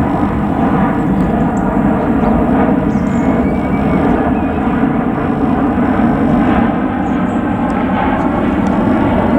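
Jet engine roar from an EasyJet Airbus A319-111's CFM56 turbofans, loud and steady with no clear rise or fall.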